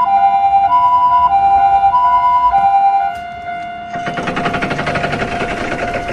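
Electronic two-tone hi-lo siren, its two notes taking turns about every 0.6 s, like a Japanese ambulance siren. The siren stops about three seconds in. A steady single tone carries on, and from about four seconds in a fast rattling buzz joins it.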